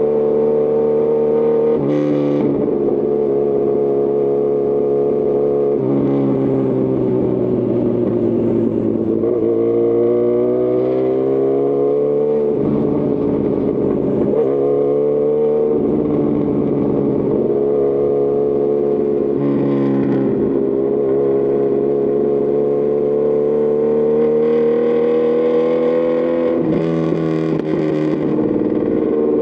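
Honda CB1000R's inline-four engine through a Lextek CP1 full exhaust system while riding. It holds a steady note, rises in pitch under throttle about ten seconds in, drops off sharply a little after twelve seconds, then climbs again and settles into a steady cruise.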